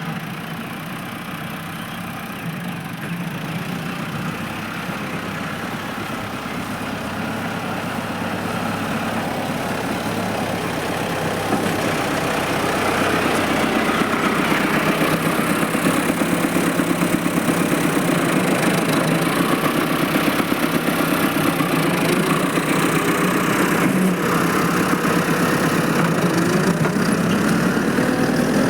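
Tractor engine running steadily with an even, fast pulse, growing louder over the first half and then holding level.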